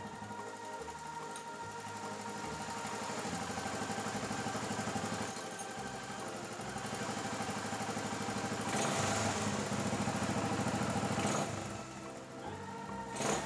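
Suzuki Goose 350's single-cylinder engine idling under background music. The engine gets a little louder about two-thirds in, then drops away, and a short sharp noise comes right at the end.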